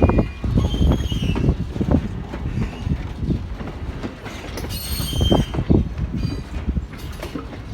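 Steam-hauled train rolling past, its wheels rumbling and knocking over the rail joints, with brief high-pitched wheel squeals near the start and again a little past the middle.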